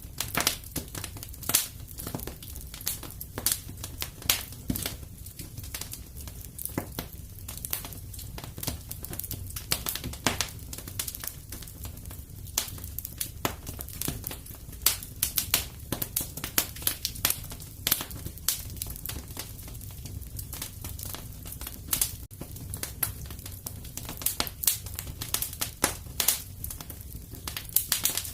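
Wood fire crackling and popping steadily, with many irregular sharp pops over a low rumble of the flames.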